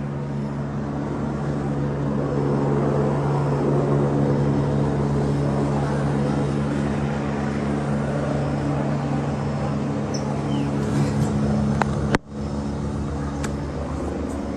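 Helicopter engine and rotor running steadily, with a brief sudden break about twelve seconds in.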